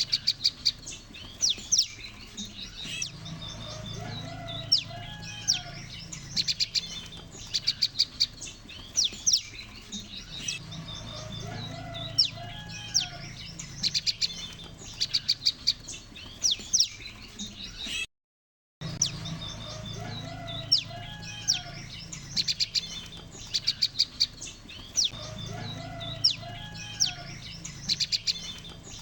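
A chorus of prenjak lumut birds calling together: rapid runs of sharp, high chirps and trills that come in bursts every few seconds over lower warbling notes, repeating like a loop. The sound cuts out completely for under a second a little past the middle.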